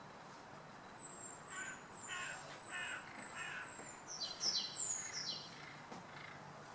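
Small songbirds calling: a run of short, high, slightly falling notes about two a second, then three louder falling notes a little past the middle.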